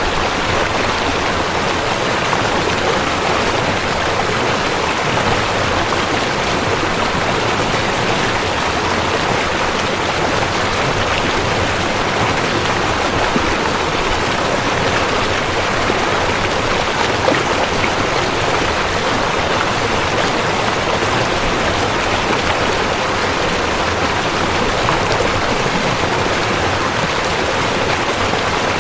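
Rushing river: steady, loud water flowing over rocks, with no breaks or changes.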